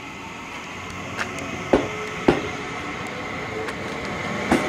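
Seibu 30000-series electric train pulling out of the station, its running noise growing louder and its wheels clacking over rail joints and points: two knocks early, then a quick run of them near the end.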